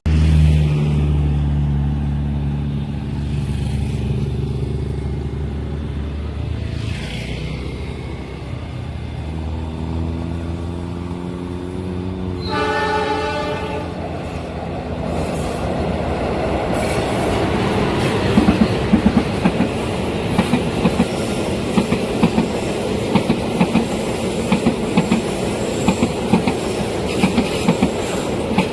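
Diesel locomotive passing with its engine running low and heavy, sounding its horn once for about a second and a half midway. The train's wagons then rumble past, with a regular clickety-clack of wheels over the rail joints.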